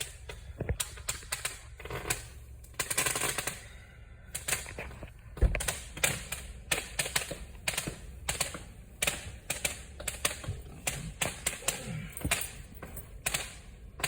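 Fireworks going off as a rapid, irregular run of sharp pops and cracks, several a second, like a string of firecrackers.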